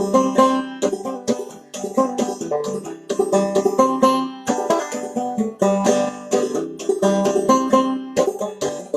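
Open-back banjo with no resonator, played in old-time clawhammer style: a quick, even rhythm of notes struck down with the fingernails, with no picks.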